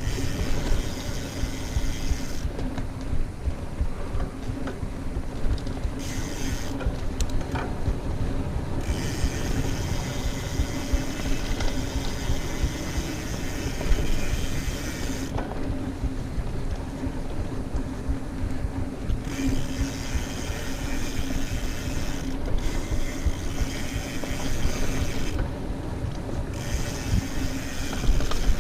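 Mountain bike on a dirt trail: the rear hub's freehub ratchet buzzes steadily, with drivetrain rattle and the rumble of tyres over the ground.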